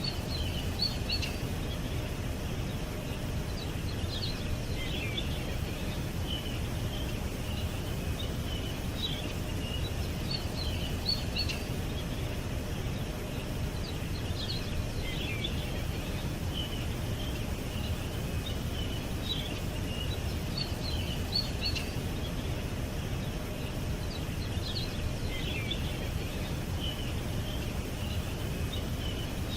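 Small birds chirping and twittering in short, high bursts every second or two, over a steady low background rumble.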